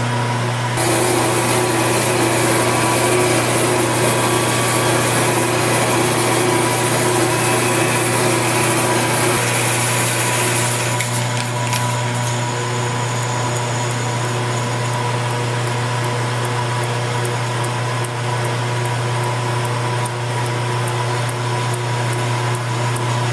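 Milling machine taking a light finishing cut of about ten thousandths on a vise anvil: a steady motor hum with a bright high hiss from the cutter in the metal. About eleven seconds in the hiss drops away and the spindle runs on with faint regular ticking.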